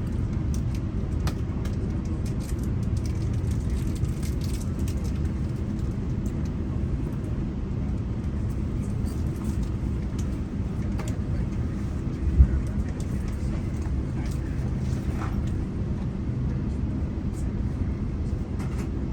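GO Transit commuter train running between stations: a steady low rumble with scattered light clicks, and one sharp thump about twelve seconds in.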